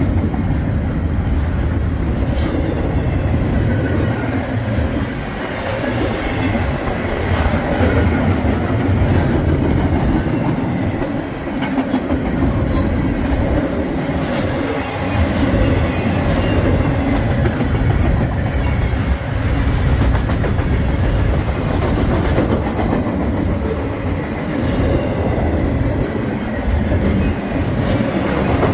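Freight train cars rolling past at close range: steady, loud wheel-on-rail noise that continues without a break.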